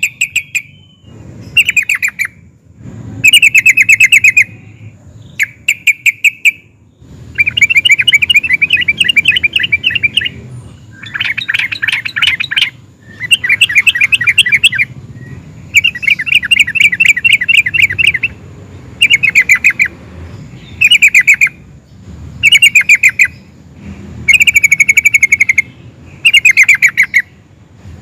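Yellow-vented bulbul (trucukan) singing loudly: phrase after phrase of quick, bubbly chattering notes, each phrase lasting up to a couple of seconds with short pauses between, some running on as longer rolling trills.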